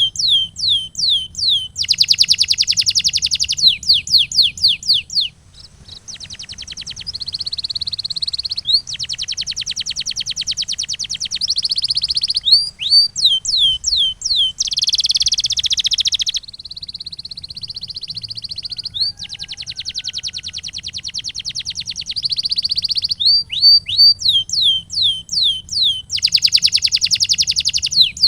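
Male domestic canary singing: runs of quick falling whistled notes, several a second, alternate with fast rolling trills that last about two seconds each. A faint steady low hum runs underneath.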